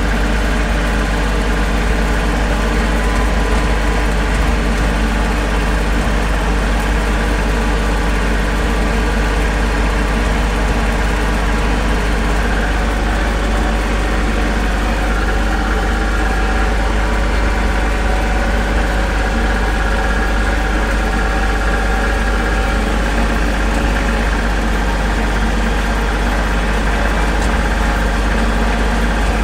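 Tractor engine running steadily under way, heard from the driver's seat, its note shifting slightly about twelve seconds in.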